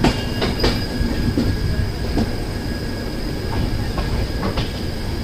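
Double-decker express train rolling slowly, heard from an open coach door: a steady rumble of wheels on rail, a few knocks in the first couple of seconds, and a thin, steady high squeal from the wheels.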